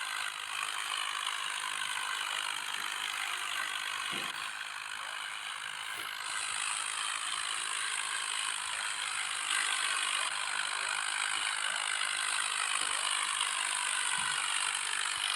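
Tractor engines running steadily, heard as a continuous mechanical clatter.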